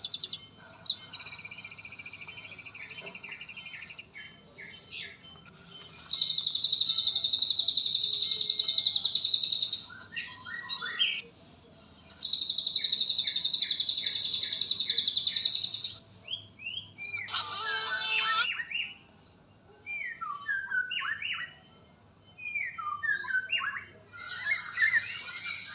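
Murai songbird singing: three long rapid buzzing trills of a few seconds each, then a string of short, varied whistled slurred notes.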